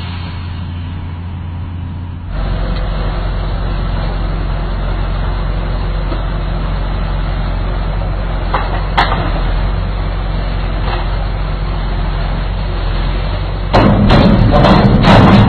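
Heavy vehicle engine running with a steady low hum. The sound steps up abruptly about two seconds in, there is a sharp click about halfway, and a louder, rougher clatter comes in near the end.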